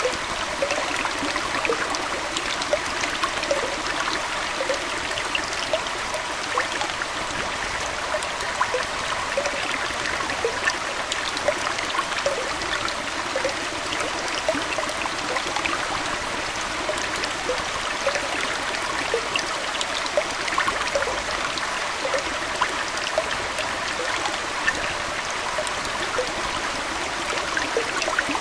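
Aquarium water flowing and trickling steadily, with many small splashes and pops scattered through it.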